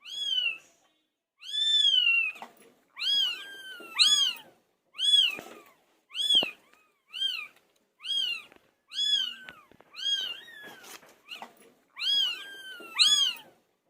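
A kitten meowing over and over: about a dozen short, high-pitched meows, each rising then falling in pitch, roughly one a second with some coming in quick pairs.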